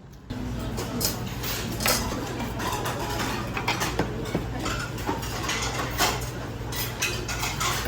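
Dishes and cutlery clinking again and again, many short sharp knocks and chinks over a steady low hum, starting suddenly just after the start.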